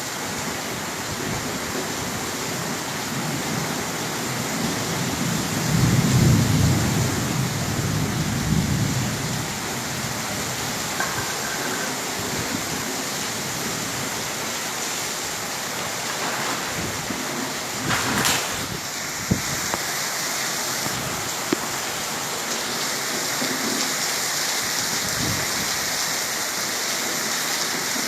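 Steady rain falling in a storm, with a low rumble of thunder swelling and fading about six seconds in and a brief louder gust or splash near two-thirds of the way through.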